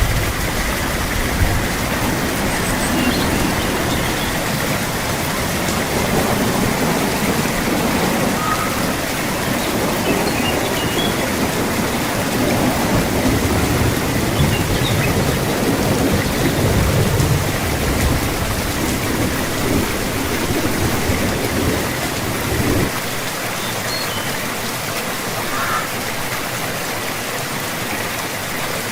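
Steady heavy rain hissing, with low rolling rumbles of distant thunder swelling and fading through most of it. About 23 seconds in, the deep rumble cuts off abruptly and only the rain hiss is left.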